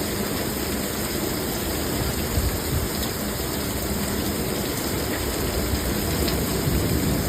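Heavy thunderstorm rain pouring down steadily, a continuous rushing noise with no breaks.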